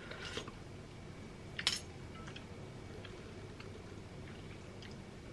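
Faint clinks and taps of a metal spoon and fork against a plate and soup bowl while eating, the sharpest click about one and a half seconds in, over quiet room tone.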